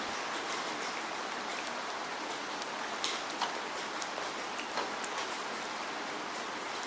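Steady rain falling: an even hiss of rainfall, with single nearby drops landing as sharp taps at irregular moments.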